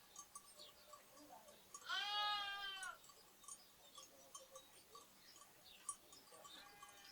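A lamb bleats once, a call about a second long, about two seconds in, and a second bleat starts faintly near the end. Sparrows chirp in short, faint high notes throughout.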